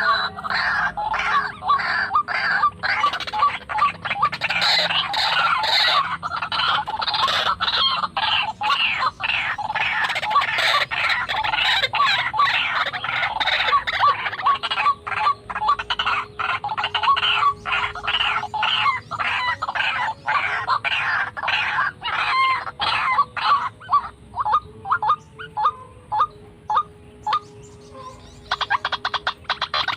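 White-breasted waterhen calls: a fast, dense string of harsh repeated croaking notes that slows and thins about two thirds of the way in, pauses briefly near the end, then starts again.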